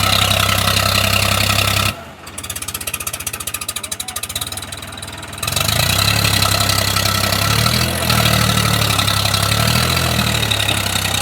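A stuck tractor's engine, hauling a sugarcane load, runs hard. About two seconds in it drops to a quieter, rapidly beating idle, then revs back up about three seconds later and keeps running hard.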